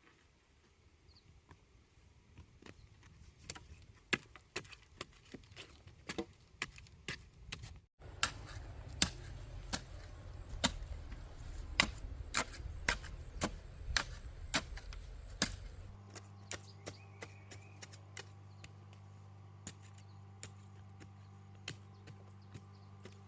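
A blade chopping, with sharp knocks repeating about one to two a second. They break off abruptly about eight seconds in and again about sixteen seconds in, and the last stretch has a steady low hum under the strokes.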